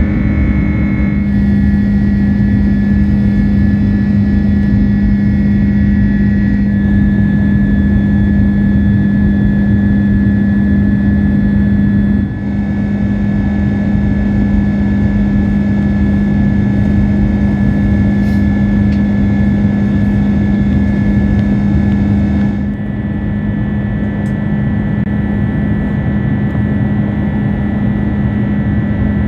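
Steady drone of jet engines and rushing air heard inside an Airbus A330-200's cabin, with a strong low hum. The character of the noise changes abruptly about four times.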